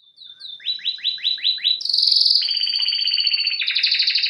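A songbird singing: a few short high notes, then a run of six quick rising sweeps, then a fast trill that holds on through the end.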